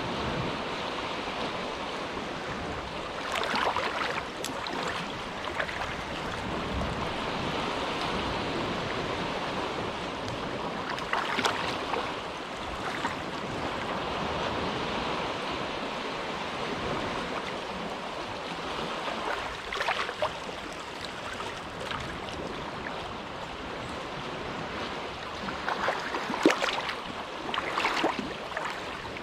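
Small, gentle waves lapping on the shore of a calm inlet: a steady wash of water broken by brief splashes every several seconds, two coming close together near the end.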